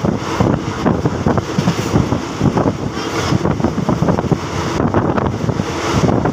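Passenger train running at speed, its rumble mixed with loud wind buffeting the microphone.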